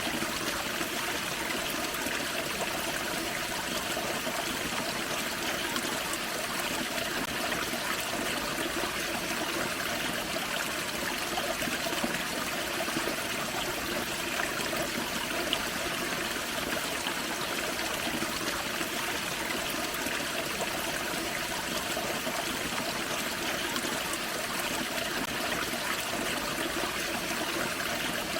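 Forest creek with a small waterfall: water running, splashing and trickling over rocks in a steady, even rush.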